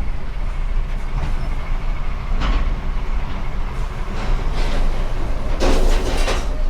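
Lorry's diesel engine running at idle, a steady low rumble heard from inside the cab. A short louder noise comes briefly near the end.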